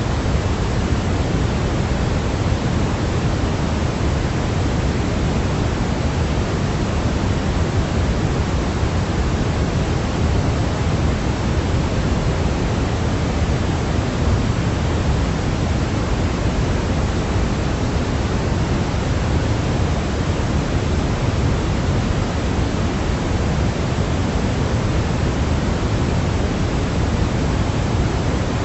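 Steady, unchanging artificial noise track (white noise for sleep), a constant hiss and rush heavier in the low end than in the treble, with no breaks or pattern.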